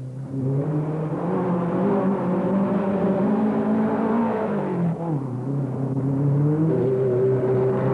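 Off-road race car engine running hard. Its pitch climbs over the first few seconds, drops about five seconds in, then climbs again and holds.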